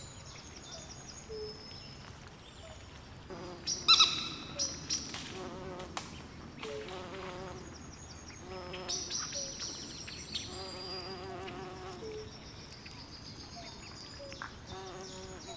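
Night swamp chorus: frogs croaking in low, wavering pulsed calls alongside insects trilling high, with one louder call about four seconds in.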